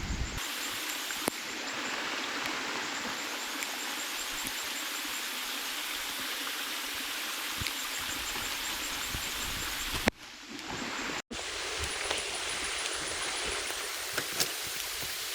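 Steady rushing water: rain and running water blending into one continuous hiss, with a few faint drips. It briefly drops out twice, about ten and eleven seconds in.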